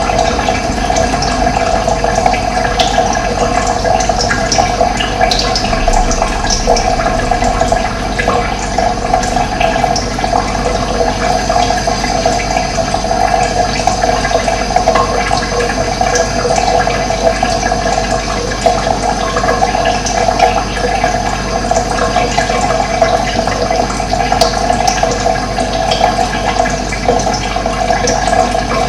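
Running water: a steady, continuous rushing flow.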